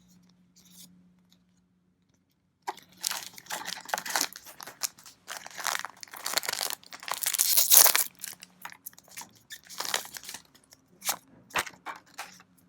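A trading card booster pack's foil wrapper being torn open and crinkled, in bursts of crackling that start about two and a half seconds in and are loudest near the middle.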